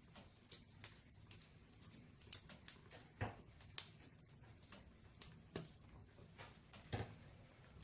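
Firewood burning in a fireplace, crackling with irregular light ticks and a handful of sharper snaps.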